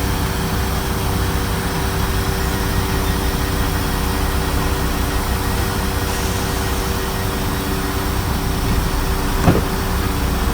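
Diesel train engine idling steadily, a low rumble with a steady hum, and a single short knock near the end.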